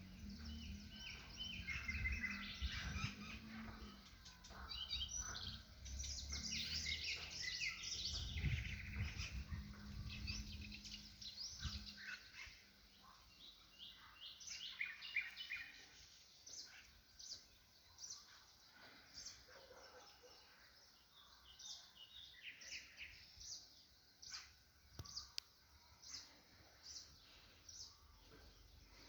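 Songbirds chirping and singing, with overlapping trills during the first half. After that, short high chirps repeat roughly once a second. A low rumble sits under the birds until about twelve seconds in.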